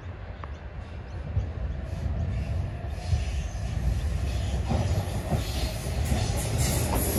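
Sydney Trains double-deck electric train approaching along the track, its rumble and wheel-on-rail noise growing steadily louder as it nears. A thin wheel squeal comes in near the end.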